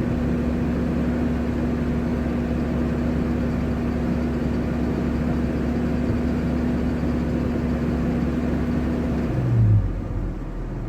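GAZelle's ZMZ-405 engine held at steady raised revs, carrying the rustling squeak that appeared above about 2000 rpm once the upper timing chain tensioner was changed, which the owner suspects comes from the timing drive. Near the end the throttle is released and the revs fall to idle.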